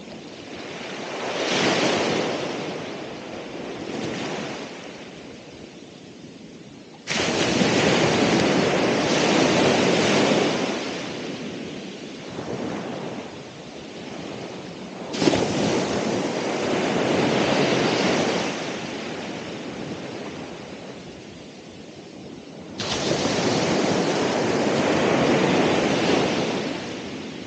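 Ocean waves breaking and washing up on a shore, in swells of rushing water. Two smaller swells come first, then three loud surges, each starting abruptly and easing off, about eight seconds apart.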